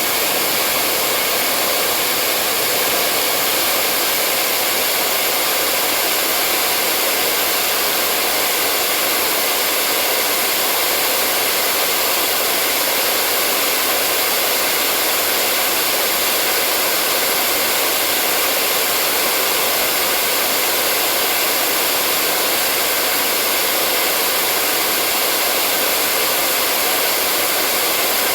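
Hair dryer blowing steadily: an even, unchanging whoosh of fan and air noise with no change in speed, played as white noise to lull a baby to sleep.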